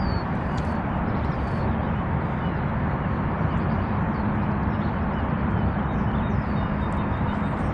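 Steady low outdoor rumble with a faint steady hum beneath it. A few birds call with short downward whistles, one near the start and one about six and a half seconds in.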